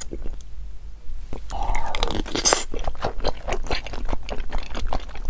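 Close-miked crunchy chewing and biting of food, with many irregular crackles and crunches. It is quieter for about the first second, then the crunching gets dense.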